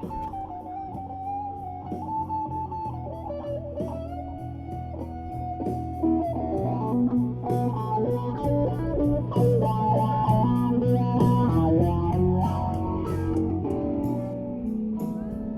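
Guitar music: a lead guitar melody with sliding notes over a bass line, growing louder about six seconds in.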